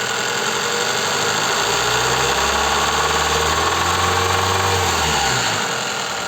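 Toyota 3S two-litre inline-four petrol engine revved from idle, its pitch climbing about a second and a half in, held high for about three seconds, then dropping back near the end. The engine has a knocking connecting rod, its bearing worn from running short of oil.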